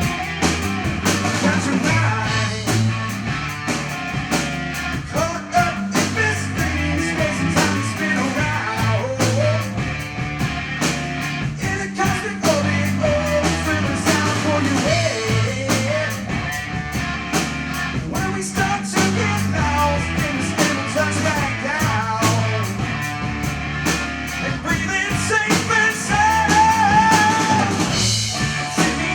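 Rock music played on drum kit, bass and electric guitar, with a melodic lead line bending in pitch.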